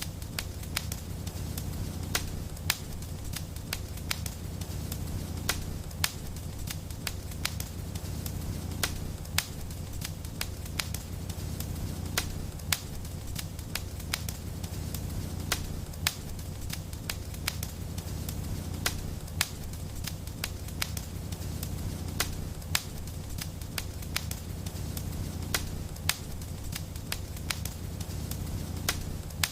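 Wood fire in a fireplace burning steadily: a low rumble of flames with frequent sharp crackles and occasional louder pops at irregular intervals.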